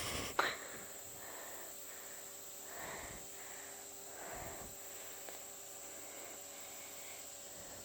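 Faint, steady high-pitched chirring of insects such as crickets, with a sharp click about half a second in and a couple of soft brief rustles.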